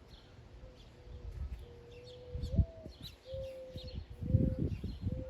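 Small birds chirping now and then, over a faint steady hum that steps up slightly in pitch about halfway through. There are a few dull low thumps, the loudest about four and a half seconds in.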